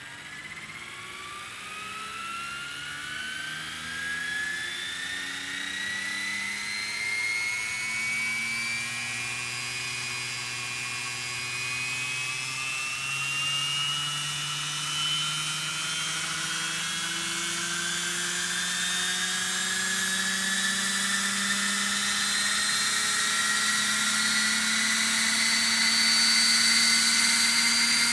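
Electric Roban EC135 scale model helicopter spooling up: a motor and rotor whine of several tones that climbs slowly and steadily in pitch and loudness as the head speed builds toward 1250 rpm.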